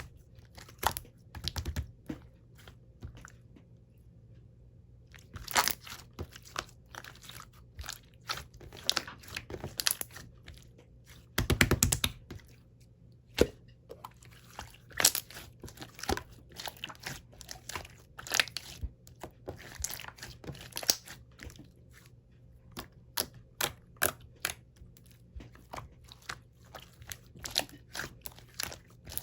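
Slime being squished, pressed and stretched by hand, giving irregular clusters of sticky clicks, pops and crackles with short pauses between.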